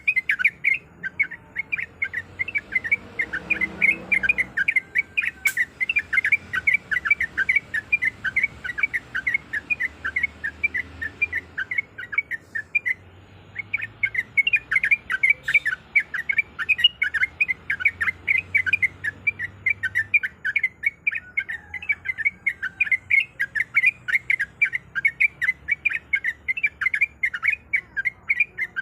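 Yellow-vented bulbul (trucuk) calling, a fast run of short, sharp chirps at about four a second, with a brief break near the middle.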